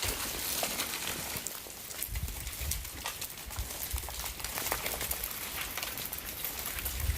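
Ice falling from ice-coated trees and hitting the ground and branches: a dense, continuous patter of sharp ticks and clinks, with a few duller thuds.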